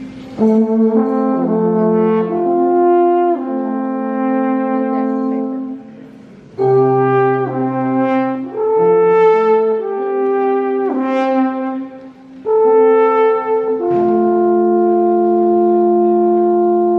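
Live brass instruments playing a slow tune of held chords in three phrases, with short breaks about six and twelve seconds in.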